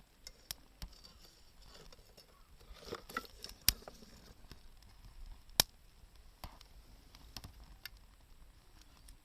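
Wood campfire crackling: scattered sharp snaps and pops, with two loud pops near the middle.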